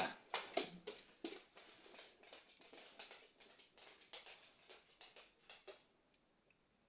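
Campfire crackling: a quick, irregular run of sharp snaps and pops that stops abruptly about six seconds in.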